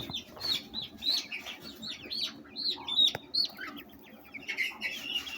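Chickens chirping and peeping: short high calls repeated a few times a second, with a single sharp click about three seconds in.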